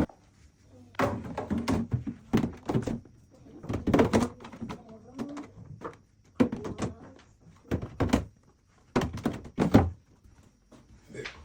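A series of irregular thunks and knocks, about a dozen, as containers and a door are handled in a kitchen.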